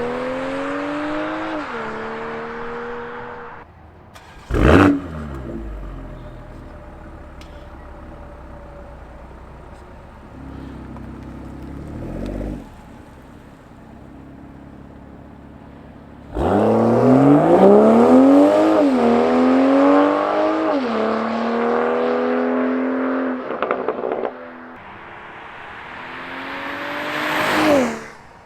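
BMW M340i's turbocharged inline-six exhaust under hard acceleration: the pitch climbs and drops back at each upshift. There is a brief loud blast about five seconds in and a quieter stretch. A second full-throttle pull with upshifts follows, then a steeply rising rev near the end that cuts off suddenly.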